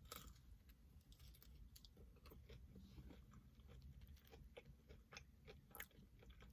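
Faint close chewing of a breaded, fried jalapeno popper: a string of small crunching clicks, a little louder near the end.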